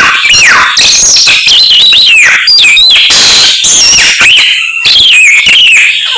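Samyong (Chinese hwamei) singing loudly in a rapid, unbroken run of clear whistled phrases, many sliding down in pitch, its song full of imitations of other birds.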